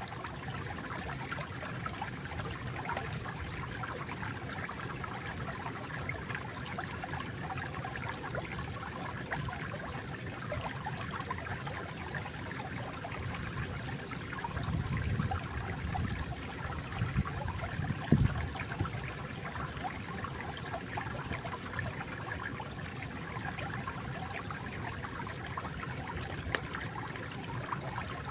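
Flowing water trickling and gurgling steadily, with a few louder gurgles about halfway through.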